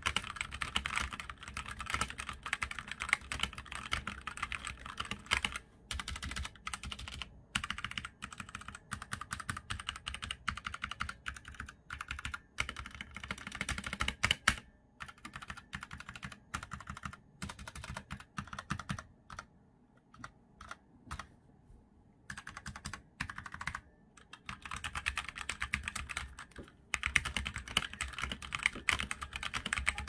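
Fast typing on a Huo Ji E-Element Z88 mechanical keyboard with Otemu Red linear switches: a dense run of keystroke clacks. It pauses briefly a few times, the longest pause about two-thirds of the way through.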